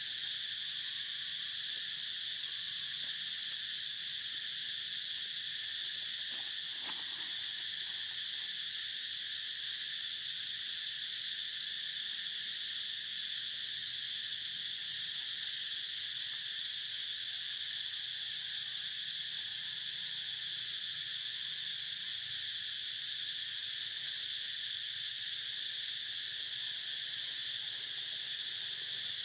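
Steady, unbroken high-pitched chirring of insects, level throughout.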